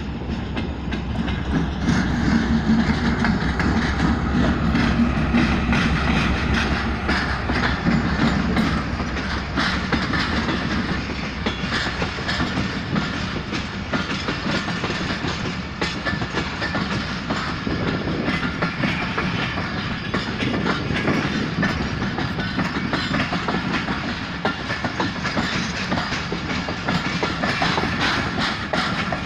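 Diesel-hauled passenger train passing close by: the locomotive's engine rumble dominates for about the first twelve seconds, then the coaches roll past with a steady clatter of wheels over the rail joints.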